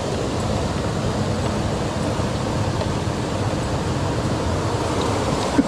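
Steady rush of a mountain stream's flowing water, with a short knock near the end.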